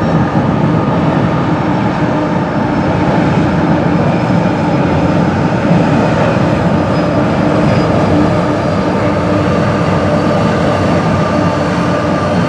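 CN freight train rolling past, a loud, steady rumble of wheels on rail with faint, steady high ringing tones over it.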